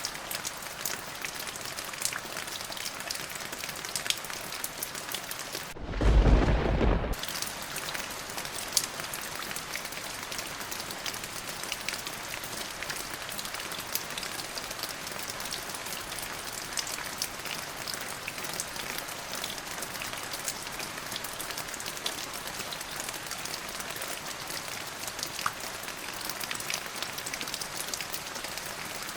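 Steady rain falling, an even hiss with many close drop ticks. About six seconds in comes a single loud, deep clap of thunder lasting just over a second.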